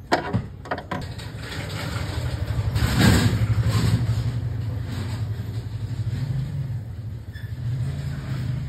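Nissan GA13 carbureted four-cylinder engine: a few clicks in the first second, then the engine running, swelling to a brief rev about three seconds in and settling to a steady idle.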